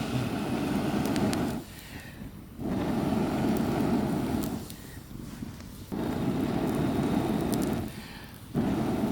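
A person blowing hard into a smouldering campfire of damp wood to get it to catch: four long breaths of about two seconds each, with short pauses to inhale between them.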